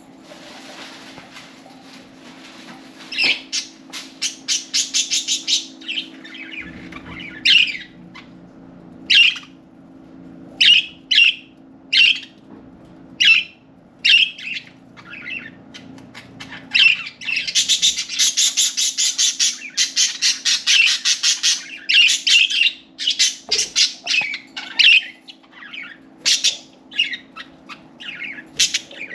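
Pet budgerigars calling: short, sharp chirps and squawks about a second apart, breaking into a dense burst of continuous warbling chatter about halfway through, over a steady low hum.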